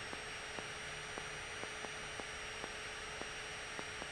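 Steady electrical hum and high whine on the cockpit intercom audio, with faint regular ticks about twice a second; the engine run-up itself is barely heard.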